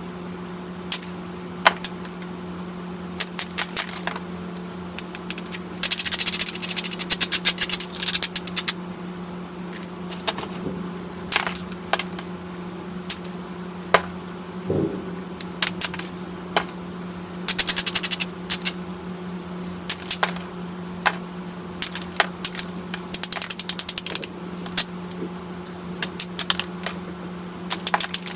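Knapping a small stone pebble, with sharp stone-on-stone clicks scattered through and three bursts of rapid clicking. A steady low hum runs underneath.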